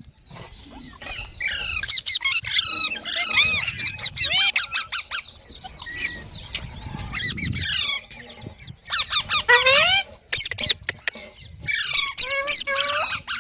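Green parrot calling in bursts of quick chirps, squeaks and squawks, its notes sliding up and down in pitch, with short clicks among them and brief pauses between the bursts.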